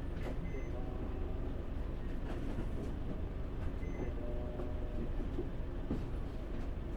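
Interior sound of a Tokyu city bus, a Mitsubishi Fuso Aero Star (PJ-MP35JM), with its diesel engine running in a steady low rumble. A faint short electronic beep comes twice, early and again near the end.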